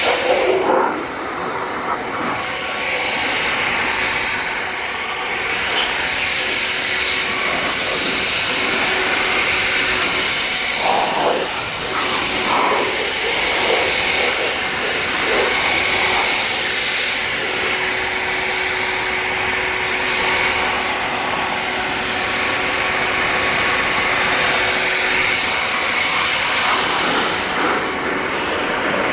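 Air blower running steadily, a rushing stream of air with a constant motor whine, drying a car after a wash.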